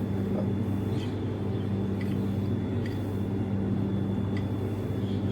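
A steady low background hum, with a few light clicks of a spoon against a dish spread through it.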